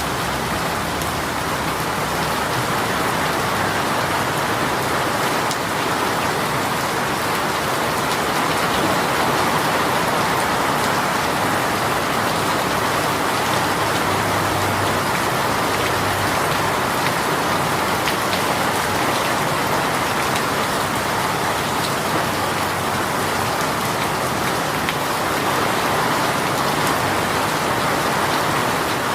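Heavy rain shower falling steadily, a dense even hiss of rain on surfaces with scattered individual drop ticks.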